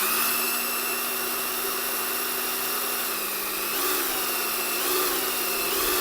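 Power drill running steadily as it bores a hole into a metal ammo can, with an even motor whine. About two-thirds of the way in, its pitch sags briefly several times as the bit bites and loads the motor.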